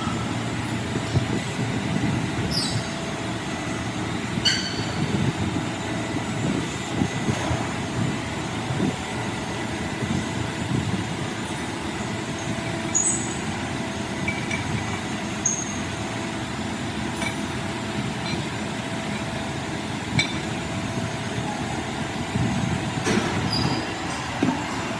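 Steady low mechanical rumble of heavy machinery, with scattered short high metallic pings and squeaks and a few sharp clicks.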